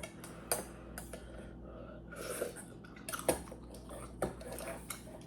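Mealtime eating sounds: utensils clicking against dishes several times, with soft chewing between.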